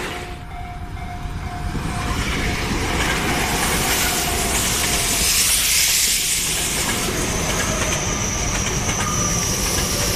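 Tobu Tojo Line electric train passing close by, its wheels and running gear making a steady loud rush on the rails. A thin, slightly falling high tone starts about seven seconds in.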